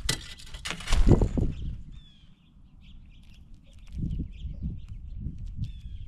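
A flurry of bird wingbeats close to the microphone, with a heavy thump about a second in, at a peanut feeding table. After it come faint short bird chirps and a few soft knocks.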